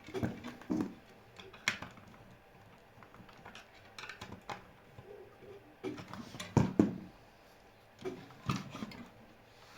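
Irregular clicks, taps and knocks of small hard objects being handled, in clusters with short pauses, the loudest knocks about two-thirds of the way in.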